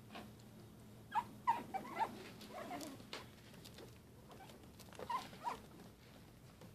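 Shih Tzu puppies whimpering in faint, short, squeaky cries, a cluster of them in the first half and two more about five seconds in.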